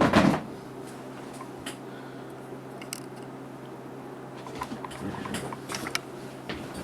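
Plastic cookie package being handled: a crinkle at the start, then scattered small crinkles and clicks, busiest a couple of seconds before the end, over a faint steady hum.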